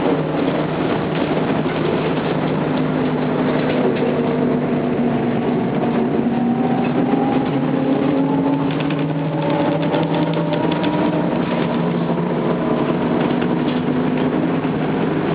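Trolleybus under way: the electric traction motor's whine in several tones over a steady rumble of road and body noise. One tone slowly rises in pitch through the middle, as the bus picks up speed.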